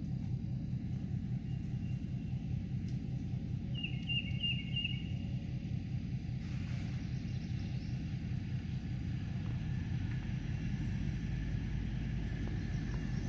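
Outdoor ambience: a steady low rumble, with a short bird call of four quick descending chirps about four seconds in.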